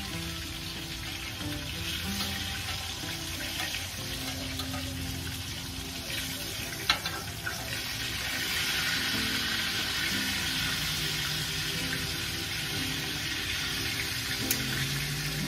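Chicken frying in a cast-iron skillet: a steady sizzle that grows louder about eight seconds in, with one sharp knock about seven seconds in.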